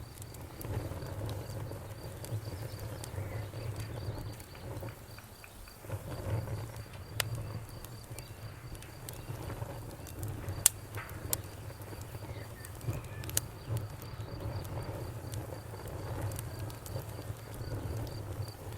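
Wood bonfire burning with a low rumble and crackling, with a few sharp pops. Behind it a cricket chirps steadily in an even pulse.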